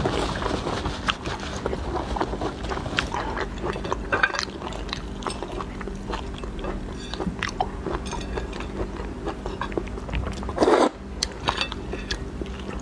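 Close-miked eating of shellfish: chewing and biting with scattered clicks and crunches of shell. A louder burst of noise comes about ten and a half seconds in.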